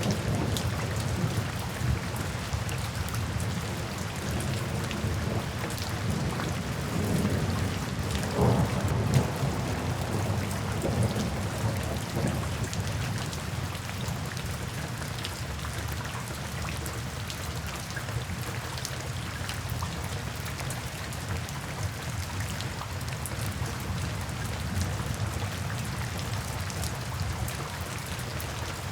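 Steady rain falling into puddles and standing water, with many small drop splashes. A low rumble of thunder is strongest in the first few seconds and eases off after that.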